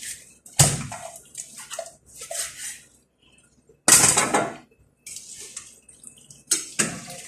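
Water splashing and pouring in a kitchen in a string of short, sudden bursts, three of them loud.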